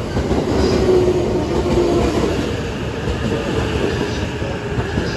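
Train pulling into a station platform: steady rumble of wheels on the rails, with a faint whine in the first couple of seconds.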